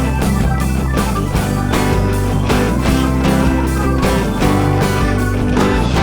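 Live rock band playing an instrumental break, with drums keeping a steady beat under bass, electric guitar and keyboards, and no singing.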